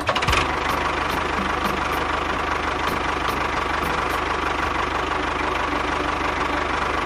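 A small engine running steadily at an even speed, with a fast, regular firing beat. It starts abruptly just after the beginning.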